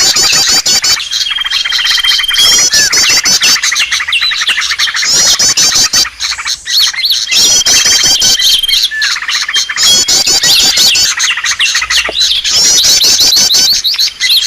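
Bird-lure recording: a loud, dense chorus of many small birds chirping, trilling and calling at once, with a held high whistle that recurs every few seconds, played to attract wild birds.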